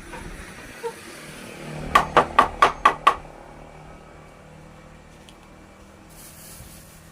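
A hammer strikes six times in quick succession, about five sharp, ringing blows a second, after a single lighter knock.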